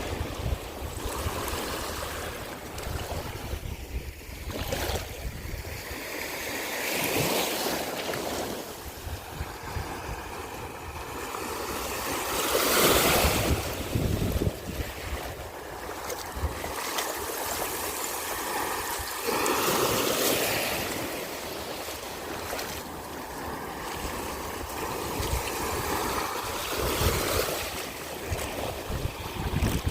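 Ocean surf breaking and washing up a sandy beach, the waves swelling and fading about every six or seven seconds, with wind rumbling on the microphone.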